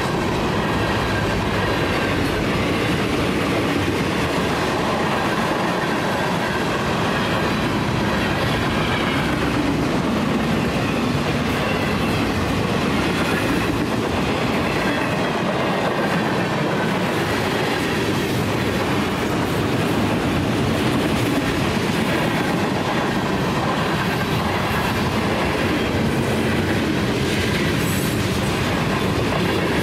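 Mixed freight train's cars rolling past close by: a steady loud rumble of steel wheels on rail with clickety-clack over the rail joints, and faint high wheel squeal at times.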